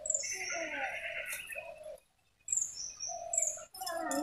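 Birds calling: repeated short high chirps that drop in pitch, over lower held and gliding calls. The sound cuts out for about half a second about two seconds in.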